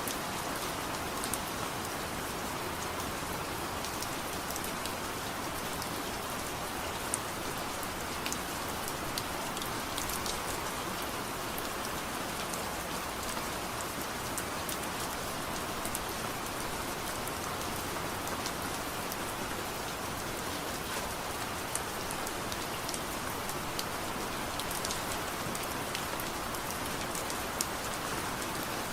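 Steady soft rain, an even hiss with many small sharp ticks scattered through it.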